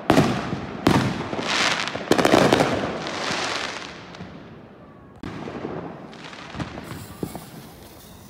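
Consumer fireworks going off: three sharp bangs about a second apart, each trailing off in a fading hiss, then quieter scattered pops during the second half.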